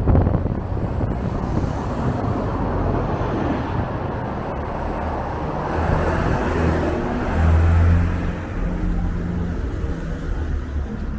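Street traffic passing, with strong wind buffeting the microphone in a low rumble. A vehicle swells louder with a low engine hum about six to eight seconds in.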